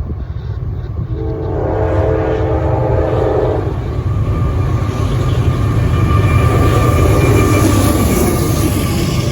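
Diesel freight locomotive's multi-chime air horn sounding one chord for about two and a half seconds over the train's loud, steady rumble. The rumble and wheel-on-rail hiss grow as the train passes close by.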